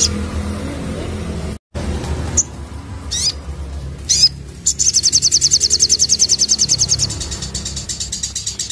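Sogon sunbird singing: a few short, high, sweeping chirps, then about halfway in a fast, loud trill of rapidly repeated high notes, the bursting 'nembak' song, which fades somewhat toward the end. A low steady rumble sits underneath at the start.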